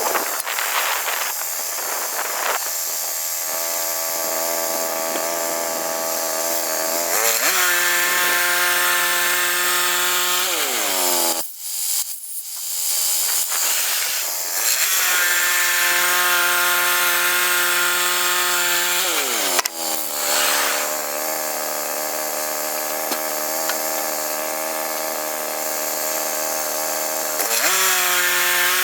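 Woodland Mills HM122 bandsaw sawmill running and cutting a log. Its engine note drops in pitch several times as it takes the load of the cut, with a short lull about halfway through before it picks back up.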